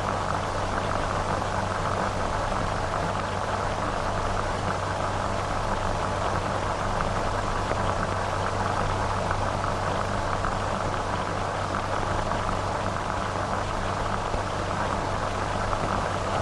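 Steady hiss and crackle of an old optical film soundtrack, with a low, constant hum beneath it.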